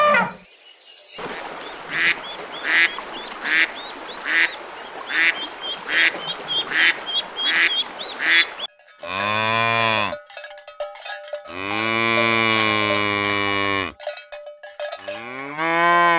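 Farm animal calls: about a dozen short, evenly spaced calls, then three long, deep, drawn-out calls like a cow mooing.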